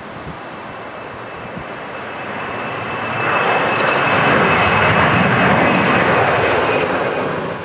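Airliner's engines growing louder as it passes close on arrival, with a steady high-pitched whine over the rush of engine noise; loudest in the second half, then cut off sharply near the end.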